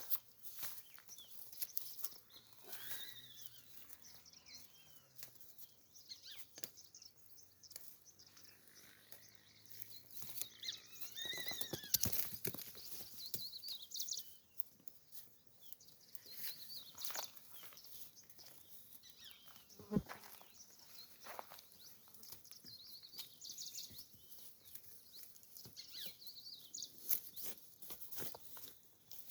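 Goats bleating now and then, a few short calls among scattered clicks and rustling.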